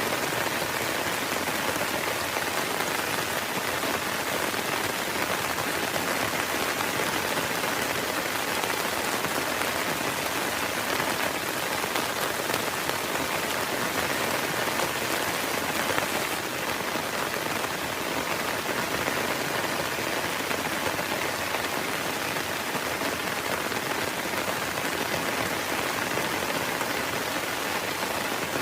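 Heavy rain falling steadily, an even hiss of many drops, with a slight change in tone about sixteen seconds in.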